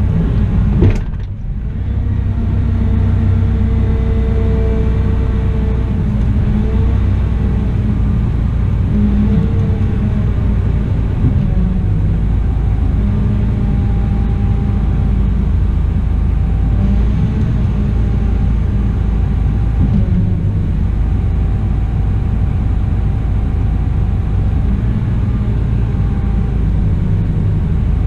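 Caterpillar 972M XE wheel loader's diesel engine running under working load: a steady, loud low rumble whose pitch rises and falls a little. A single sharp click about a second in.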